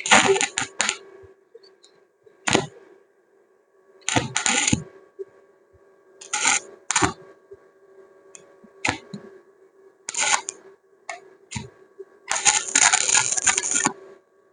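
Stick (arc) welder laying short tack welds: bursts of crackling arc that each last under a second to about a second and a half, the longest near the end, over the welding transformer's steady hum, with a few sharp metallic clicks between bursts.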